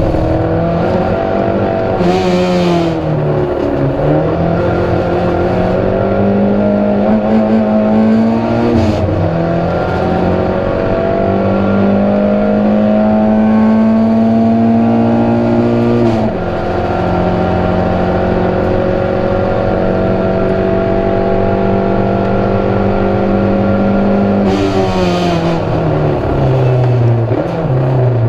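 Proton Saga race car's engine under hard racing load, its pitch climbing steadily and then dropping at each gear change or lift. A sharp drop comes about sixteen seconds in, and it falls off again near the end. A short hiss comes about two seconds in and again near the end.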